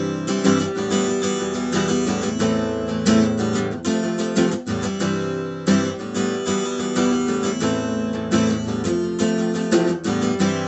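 Acoustic guitar strummed in a steady rhythm, playing out the song's closing bars, with the last chord left ringing near the end.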